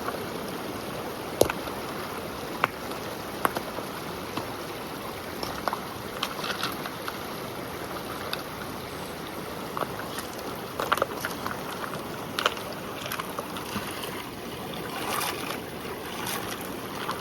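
A river flowing steadily, with scattered sharp clicks and knocks over it.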